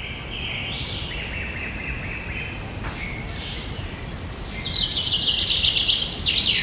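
Birds singing, with a loud, rapid trill from about four and a half seconds in until near the end, over a low steady background rumble.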